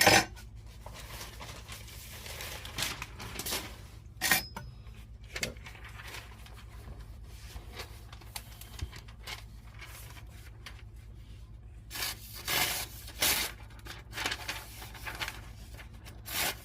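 Newspaper rustling and a freshly sharpened serrated knife sawing through it in short rasping strokes, the strongest cluster about twelve seconds in. The sawing, chewing sound rather than a smooth shearing one shows the serrations are still intact.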